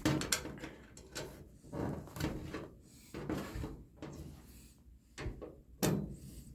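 Irregular knocks, clunks and short scrapes of furniture parts being handled during assembly.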